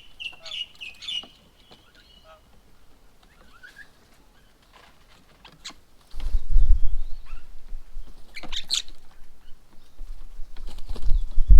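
Birds calling at a bird table: a quick run of high chirps at the start and a sharp call about eight and a half seconds in. From about six seconds in, loud low rumbling comes and goes under the calls.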